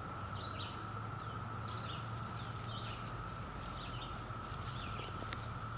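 Outdoor ambience of birds chirping in short, repeated calls, over a steady high tone and a low hum.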